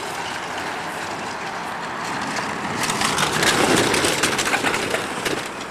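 Model stock cars rolling along a built track: a rough rolling rumble that grows louder from about two and a half seconds in, with rapid clicking and rattling, then fades near the end.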